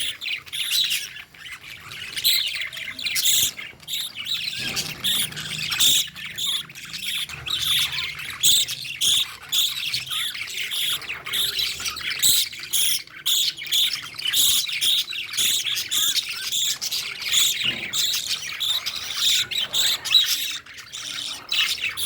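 Lovebirds calling: a dense, unbroken run of short, high chirps and squawks, several a second.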